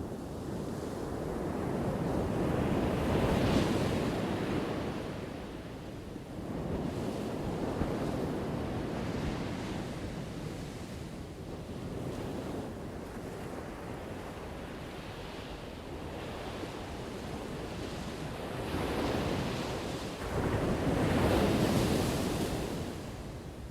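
Ocean waves crashing on a shore, each breaker swelling up and washing away in a slow surge. The biggest ones come about three seconds in and again near the end.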